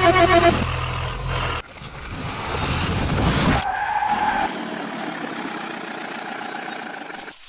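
Dubbed-in car sound effects with a rising hiss like skidding tyres, after a short electronic jingle ends about half a second in.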